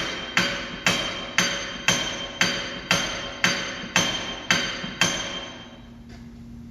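Steel hammer blows on the rear wheel hub bearing assembly of a 2010 Dodge Journey, at an even pace of about two a second. Each blow rings like metal. About ten blows land, then they stop about five seconds in.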